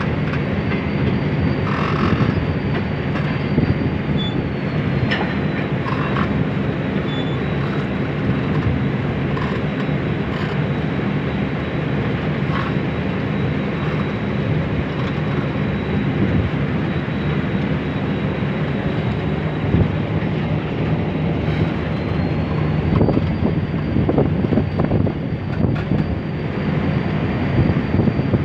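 Passenger train coach rolling slowly along flooded track, heard from the coach's side: a steady rumble of the carriage and wheels with a few light clicks. A thin high whine runs through it, dipping slightly in pitch about five seconds in and rising back near the end.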